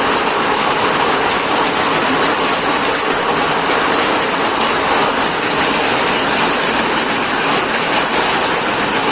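Hailstones pelting down in a heavy hail storm: a loud, steady, dense clatter of countless small impacts.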